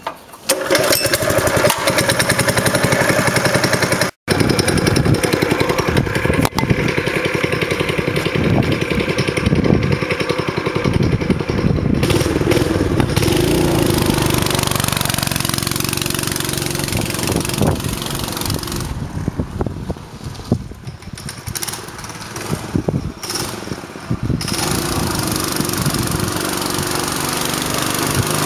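Honda GX160 single-cylinder four-stroke engine on a homemade belt-drive minibike, running. It breaks off briefly about four seconds in, and its loudness rises and falls.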